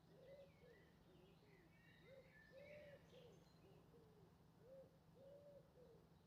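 Faint birdsong: a run of low, arching notes repeated about every half second, with higher chirps from smaller birds scattered over the top.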